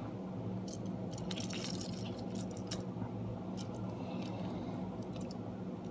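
Faint scattered clicks and rustles of small toy engines being handled, over a steady low hum.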